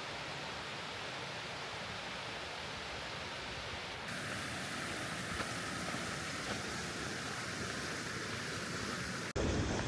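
Steady rushing of a mountain stream's water, growing brighter about four seconds in and breaking off suddenly near the end.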